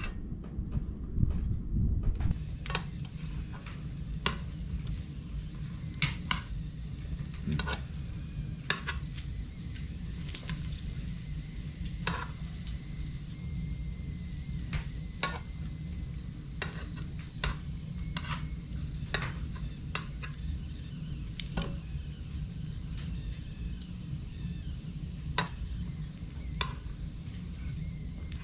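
Firewood burning in a wood stove, crackling with irregular sharp pops over a steady low rumble.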